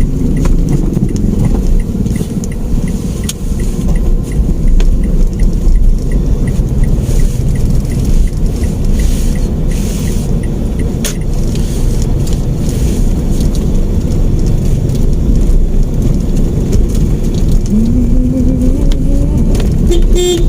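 Mitsubishi Mirage hatchback driving, heard from inside the cabin: steady engine and road rumble. A quick, regular light ticking runs through the first half.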